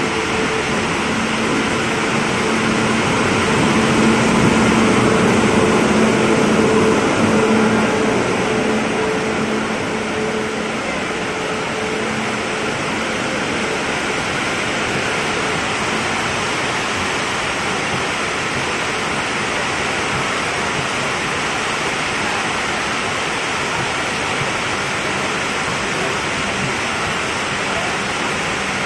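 WAP-7 electric locomotive rolling in with a steady low hum that peaks early and fades after about ten seconds. The LHB passenger coaches follow, giving an even rush of wheels on rails as they roll past.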